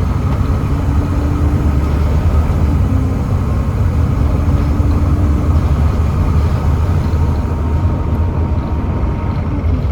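Volvo B7TL double-decker bus running steadily, its Volvo D7C 7.3-litre diesel and ZF Ecomat six-speed gearbox giving a deep rumble with a faint whine over it.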